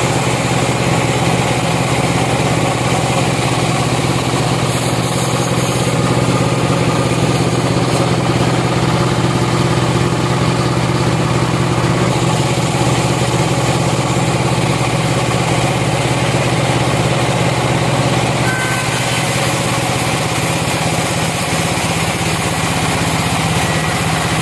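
Sawmill machinery running steadily: a motor's even drone under the noise of the saw, with a slight shift in the sound about three-quarters of the way through.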